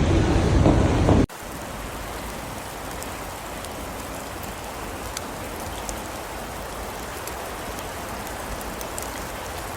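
Loud street noise cuts off suddenly about a second in and gives way to a steady, even hiss of falling rain and wet snow, with faint scattered ticks of drops.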